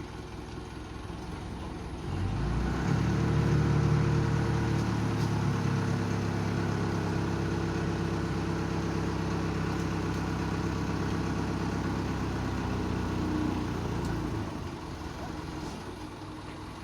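Truck engine coming up in revs about two seconds in, running steady at raised revs for about twelve seconds, then easing back down near the end.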